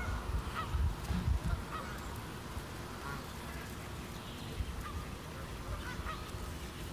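Birds calling: short calls repeating every half second or so, over a low rumble that is strongest in the first second and a half.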